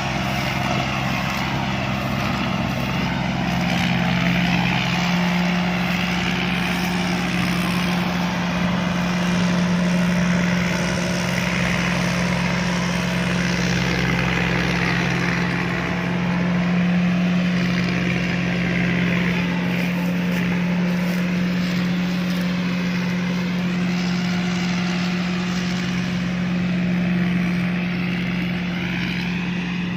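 Rice combine harvester running steadily: a constant low engine hum with a wavering mechanical whir above it.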